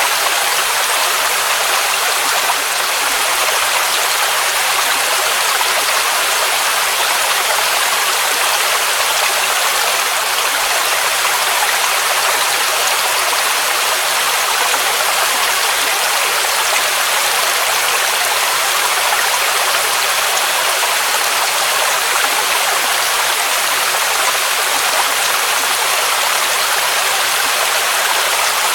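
Waterfall: a mountain cascade rushing steadily, an even hiss-like roar of falling water with no change.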